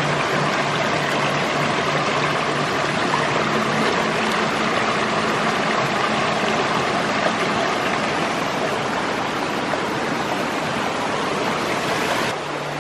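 Mountain stream rushing steadily, an even, loud hiss of running water that cuts off abruptly near the end.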